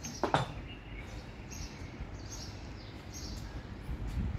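Birds chirping in short, high calls, repeated every second or so, over a steady low outdoor rumble. A brief louder sound comes just after the start.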